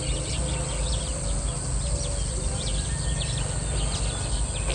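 Birds chirping in short, repeated calls over a steady low outdoor rumble.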